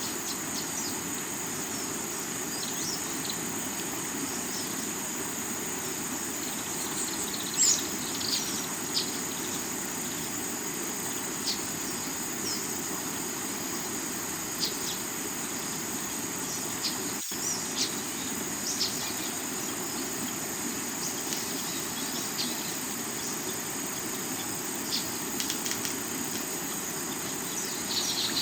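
River water running over rocks in a steady rush, under a constant high drone of insects, with short bird chirps scattered throughout. A split-second dropout breaks the sound a little past halfway.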